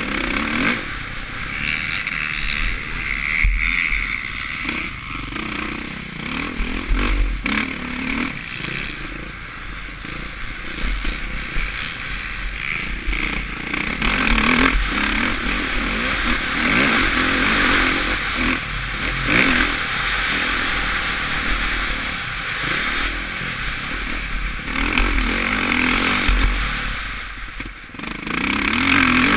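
Suzuki RM-Z450 four-stroke single-cylinder motocross engine revving up and down as the bike is ridden hard around the track, with heavy wind rush and rattling over the bumps, heard from a helmet-mounted camera. The sound drops briefly near the end.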